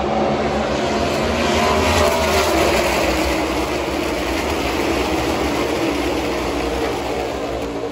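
NASCAR race trucks' V8 engines running at speed past the grandstand, a loud steady engine drone with a pitch that falls as a pack goes by about two to three seconds in.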